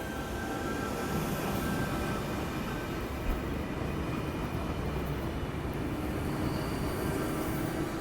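A four-car V set electric train pulling out of the station: steady rail running noise, with a high tone that fades out about two seconds in.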